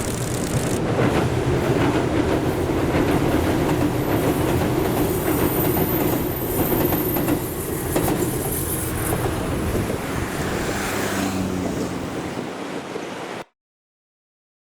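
A train running past on the rails: a steady rumble of wheels on track with some rail clatter, easing off slightly before the sound cuts off suddenly near the end.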